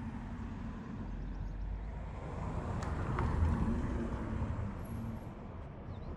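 Low rumble of a passing vehicle, building to its loudest about three and a half seconds in and then easing off.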